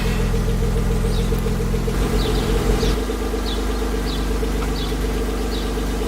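Car engine idling steadily, its note changing about three seconds in, with a faint short high squeak repeating about every half second.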